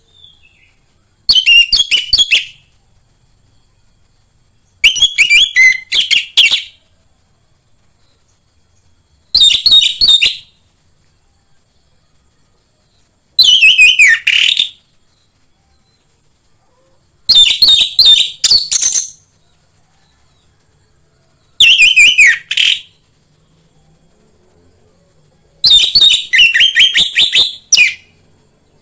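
Orange-headed thrush (anis merah) singing in short, loud phrases: seven bursts of rapid, varied notes, each one to two seconds long and about four seconds apart. A faint steady high hiss is heard between the phrases.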